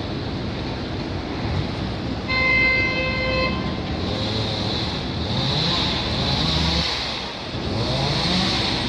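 Street traffic with a vehicle horn sounding once for about a second, a couple of seconds in, then engines running up in pitch as vehicles accelerate.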